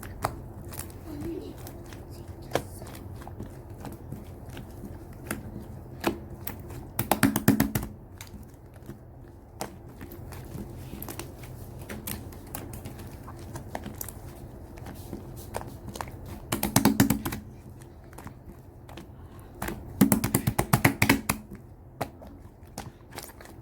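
Slime being squished and worked by hand, giving scattered sticky clicks and pops. Three times, about 7, 17 and 20 seconds in, it breaks into a rapid run of crackling clicks, over a faint steady low hum.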